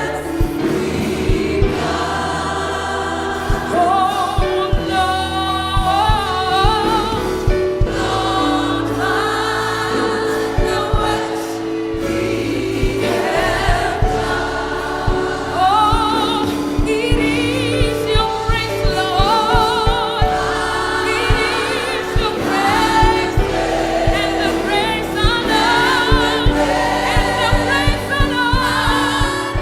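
Gospel choir singing with vibrato over sustained low accompaniment and a steady percussive beat.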